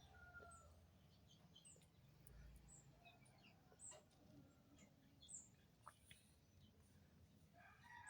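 Near silence with faint, scattered short bird chirps and a few light clicks.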